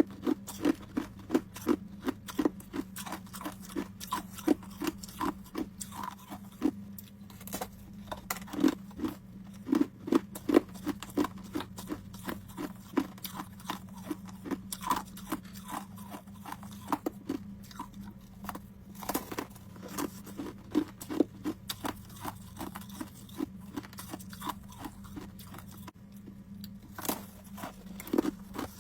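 Homemade ice cubes being bitten and chewed close to the microphone: a steady run of sharp, crisp crunches, a few a second, over a steady low hum.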